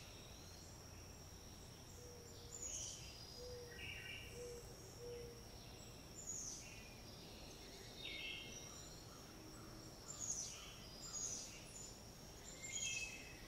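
Faint outdoor ambience: scattered short bird chirps every second or two over a steady thin high-pitched tone and a low background hum.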